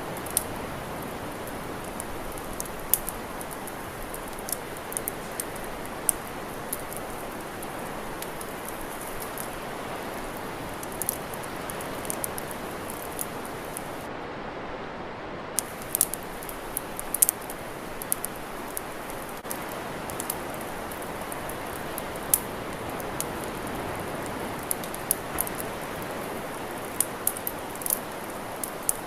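Wood campfire crackling: irregular sharp pops and snaps, a few of them louder, over a steady hiss.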